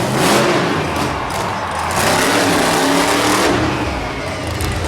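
Monster truck engine revving hard, its pitch rising and falling with the throttle in repeated surges.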